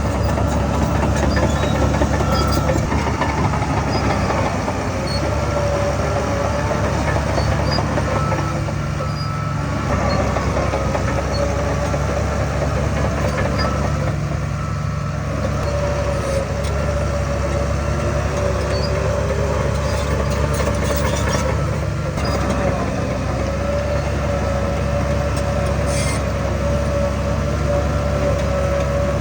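Heavy diesel earthmoving machinery running steadily under load, a deep engine rumble with a steady whine over it.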